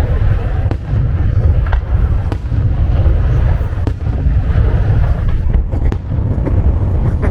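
Fireworks going off: a continuous low booming of bursts with many sharp cracks and pops.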